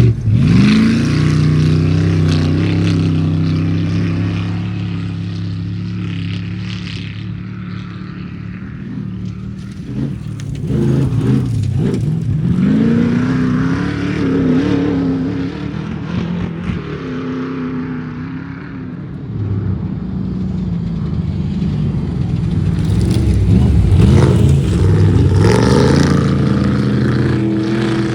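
Off-road race vehicle engines running and revving, with the pitch climbing as they accelerate about two-fifths of the way in and again near the end.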